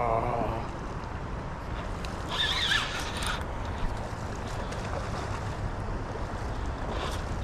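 Steady rush of river water with wind on the microphone, and a short, higher-pitched sound about two and a half seconds in.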